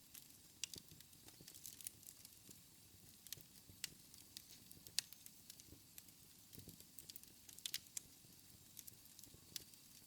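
Quiet wood fire crackling in a fireplace, with irregular sharp snaps and pops, the loudest about five seconds in.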